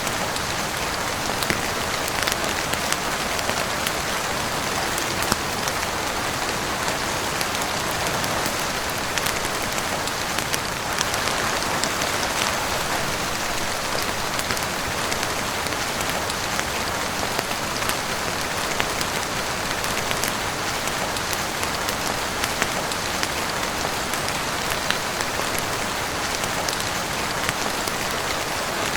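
Heavy rain falling steadily on a roof, a dense even hiss sprinkled with many small sharp ticks of drops.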